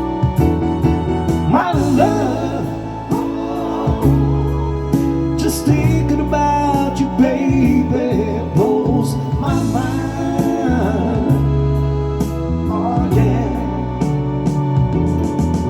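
Live band playing a slow soul ballad: sustained bass and keyboard chords under steady cymbal ticks, with a lead singer sliding through wordless vocal runs. The voice drops out near the end, leaving the keyboard.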